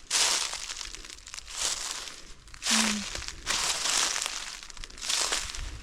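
Footsteps crunching through dry leaves and forest litter, an even walking pace of about five steps.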